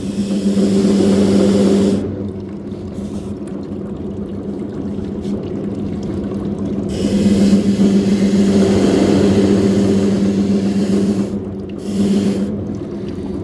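A shoe washing machine running with a steady motor hum. The hum drops quieter for about five seconds starting two seconds in, and briefly again near the end.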